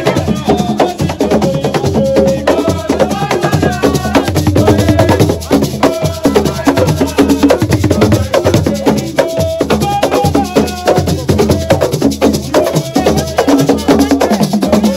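Assiko music: fast, dense hand percussion with sharp wood-block-like clicks and drums, with melody lines over it.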